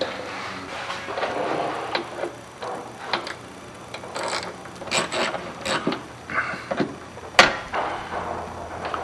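Hand tools and small metal parts clicking, tapping and clattering against the inside of a pickup truck door, in irregular short knocks, with one sharper knock about seven seconds in.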